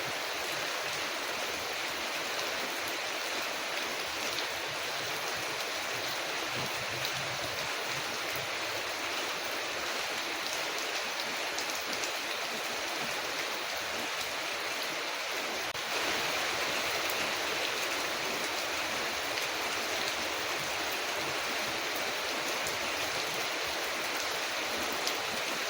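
Steady rain falling on a window, an even hiss with no break, growing slightly louder about sixteen seconds in.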